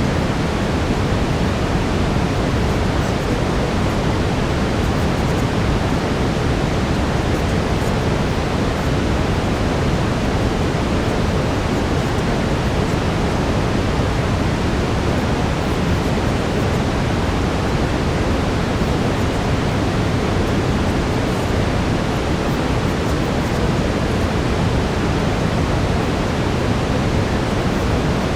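Steady brown noise: an even, deep rushing hiss, heaviest in the low end, with no change throughout.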